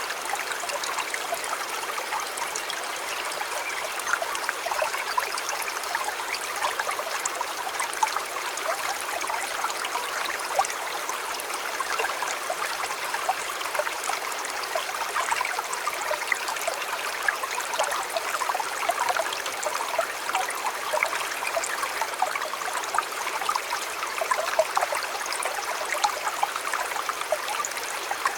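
A river flowing over stones: a steady, dense splashing and bubbling, with no deep rumble.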